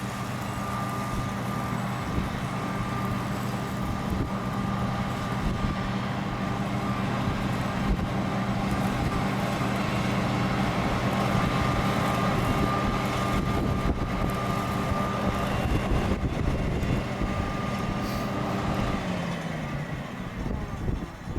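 Large diesel engine of harvest machinery running steadily with a high whine above it, growing louder toward the middle, then winding down in pitch near the end.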